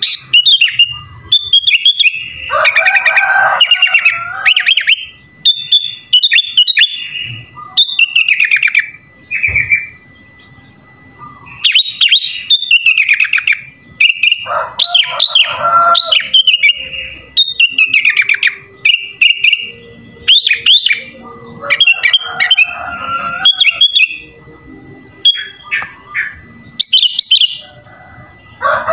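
Sooty-headed bulbul (kutilang) singing a prolific song full of fill-in phrases: short, quick-bending whistled phrases repeated every second or two with brief pauses, broken several times by denser, busier chattering passages.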